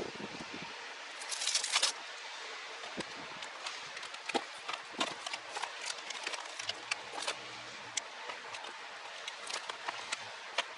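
Hands working with car wiring and small parts: a short scratchy rustle about a second in, then scattered light clicks and ticks over a steady hiss.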